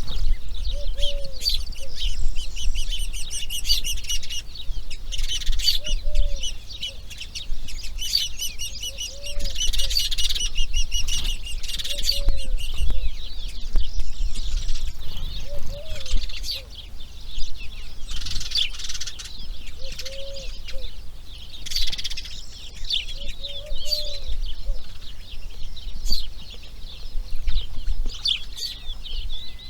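Birds chirping continuously in high, rapid twitters, with a short lower call repeated every few seconds over a steady low rumble.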